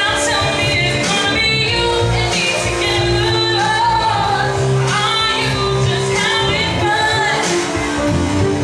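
Woman singing a pop song over instrumental accompaniment.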